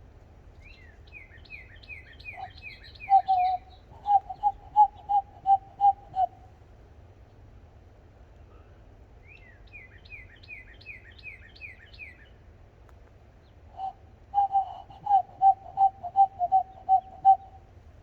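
Bird calls in two bouts. In each, a run of about eight quick high chirps that each fall in pitch is followed by a louder, lower run of about eight evenly spaced repeated notes.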